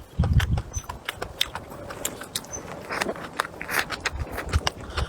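Close-up eating: biting and chewing food, with many sharp irregular clicks and taps and a few low thumps.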